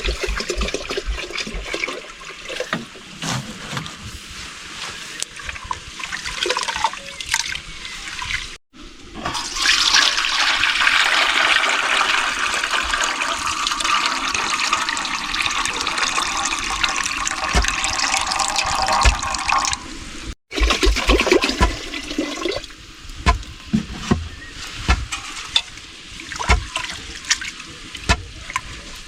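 Water running or pouring steadily for about twelve seconds in the middle, with scattered short knocks and clinks of kitchen work before and after.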